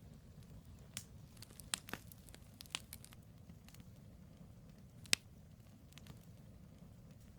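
Wood fire burning: a steady low rumble of the flames with scattered sharp crackles and pops from the burning logs, a small cluster in the second and third seconds and one loud pop about five seconds in.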